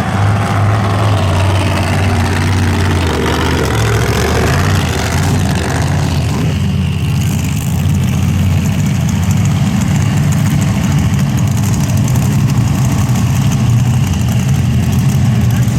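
Big mud-racing truck engines running loud at low speed after a pass, a deep steady rumble. The engine note drops about three seconds in and then holds steady.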